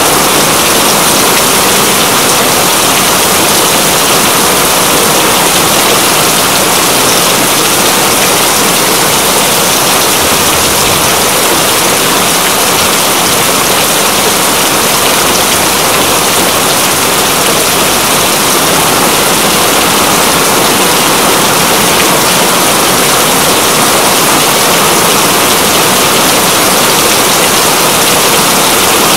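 Steady heavy rain falling, a loud, even, unbroken hiss.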